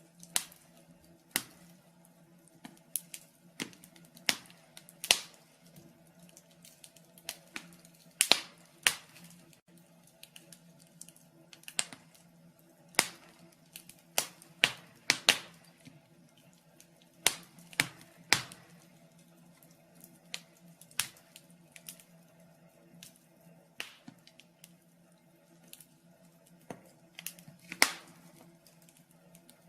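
Wood fire crackling in a fireplace: sharp irregular pops and snaps, one or two a second, some louder than others, over a faint steady low hum.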